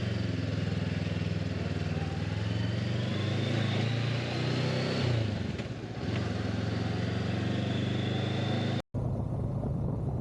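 Motorcycle engine running while riding, its note dipping briefly about halfway through and then picking up again. The sound cuts out for an instant near the end.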